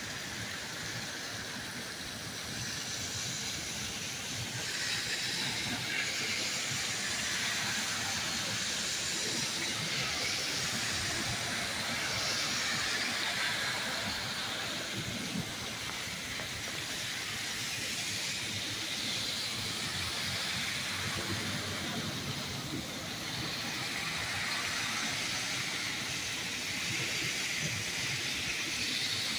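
Torrential rain pouring steadily, a continuous hiss that swells and eases, with a car's tyres swishing through standing water on the street partway through.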